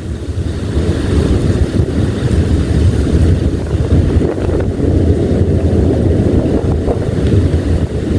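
Violent thunderstorm wind gusting and buffeting the microphone, a loud, continuous low rumble.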